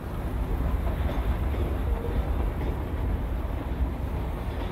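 Freight train rolling through a rail yard some way off: a steady low rumble.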